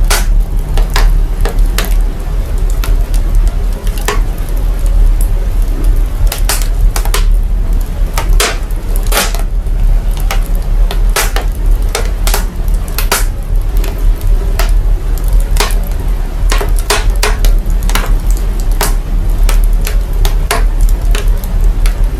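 Fire crackling, its sound processed to bring out a deep bass: irregular sharp pops and snaps over a loud, steady deep rumble.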